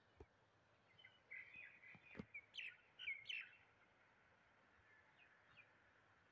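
Faint bird chirps: a run of short rising and falling calls between about one and three and a half seconds in, a couple more weak ones later, over a quiet background, with a sharp tick about two seconds in.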